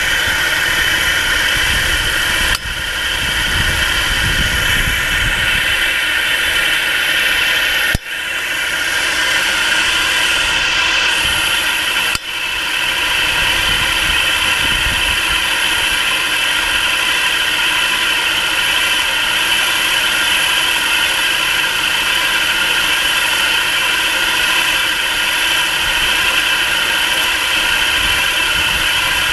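Nissan March K13 engine idling steadily while still cold; the owner says it knocks under the hood until it warms up. The sound drops out briefly three times.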